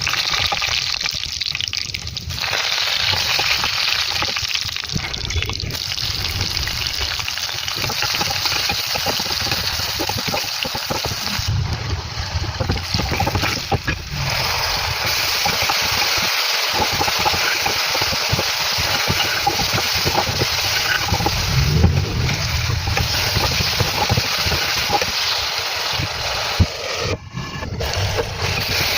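Oil and food sizzling in a kadai as the chicken cooks: a steady frying hiss that breaks off and resumes a few times.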